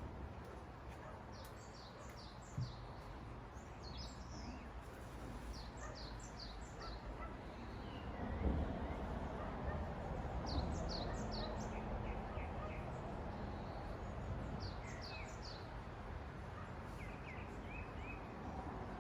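Small birds chirping in quick runs of three to five high, falling notes every few seconds, over a steady low rumble of traffic.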